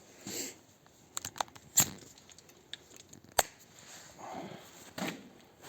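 Metal tools and parts being handled: scattered clinks and light knocks, with two sharper metallic knocks, one about two seconds in and one more than a second later, and a few short rustling scrapes.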